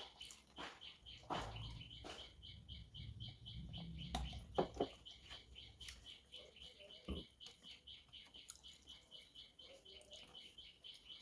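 Close-miked eating sounds: wet chewing and mouth clicks, with a couple of louder clicks about four and a half seconds in.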